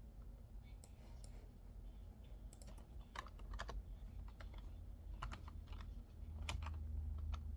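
Typing on a computer keyboard: scattered, irregular keystrokes, faint, over a steady low hum.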